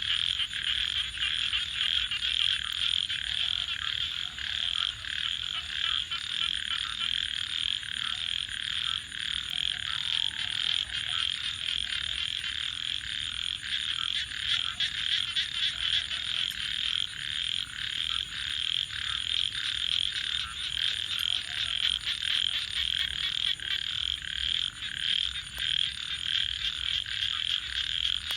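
A dense chorus of frogs calling continuously, a fast pulsing trill with no break, under a thin steady high-pitched tone.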